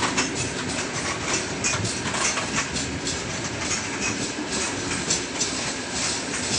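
Freight train's open gondola wagons rolling past close by: a steady rumble of steel wheels on rail, with frequent sharp clacks from the wheels and rail joints.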